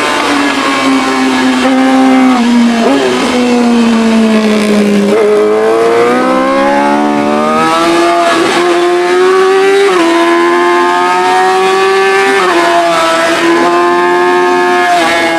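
Yamaha R6's straight-piped inline-four engine running hard under way. The note drops over the first five seconds, then climbs and holds high, with several short breaks for gear changes.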